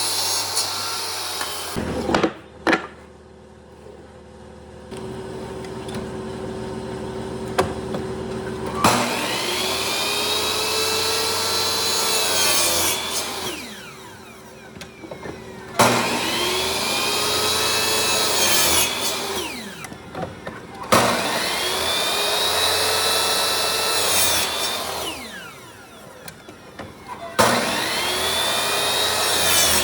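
Electric power tool cutting into wood in four passes of a few seconds each. Each pass begins with a sharp hit, and the motor's pitch rises and then falls. It runs more quietly between passes.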